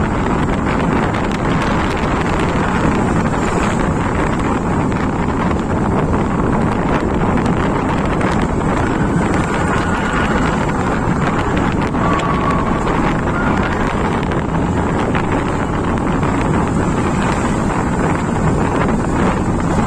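Steady, loud rush of wind buffeting the microphone on a moving motorcycle, with the road and engine noise of the ride blended beneath it.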